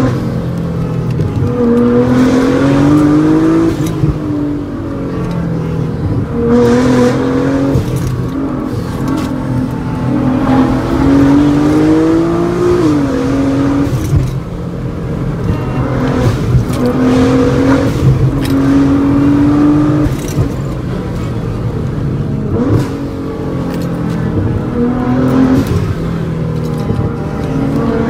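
Nissan GT-R R35's twin-turbo V6 heard from inside the cabin, pulling hard and backing off again and again on a twisty road, its pitch climbing and then dropping every few seconds. The owner says the engine was in limp mode, making only about 10 psi of boost.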